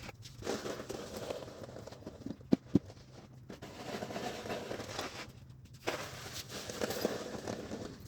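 Snow shovel scraping and scooping heavy, wet, icy snow on a driveway in repeated strokes, with two sharp knocks in quick succession about a third of the way in, the loudest sounds.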